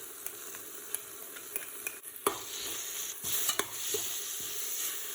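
Onion-tomato masala with freshly added coriander, mint and green chilli paste sizzling in oil in the pot while being stirred, with a few sharp clicks of the utensil against the pan.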